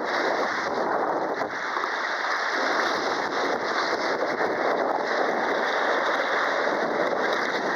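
Steady rushing, splashing water noise, dense and unbroken.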